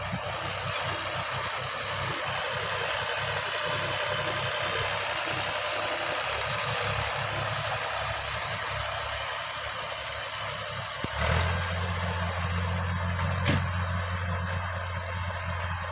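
Tractor engine running steadily. About eleven seconds in there is a sharp knock, after which a steady low hum comes in, with another short click a couple of seconds later.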